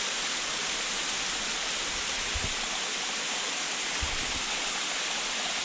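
Waterfall rushing: a steady, even hiss of falling water, with two soft low bumps about two and four seconds in.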